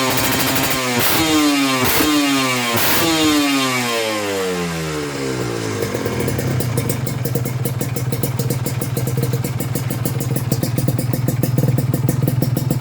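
Kawasaki Ninja RR two-stroke engine through an aftermarket Ahau exhaust with an unbranded silencer. The throttle is blipped three times in the first few seconds, with the revs falling away after each, then the engine settles to a steady, rattly idle.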